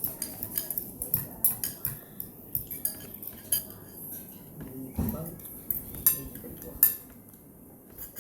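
Spoons and forks clinking and scraping against bowls while eating instant noodle soup, in many quick irregular clicks that thin out near the end, with a dull knock about five seconds in.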